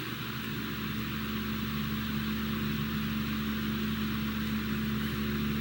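A steady electrical hum at one unchanging pitch, with a hiss over it.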